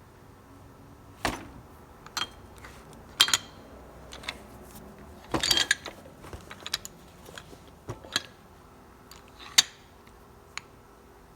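Scattered metallic clinks and knocks of steel parts being handled, about half a dozen separate strikes with a short ring, and a brief clatter about five and a half seconds in.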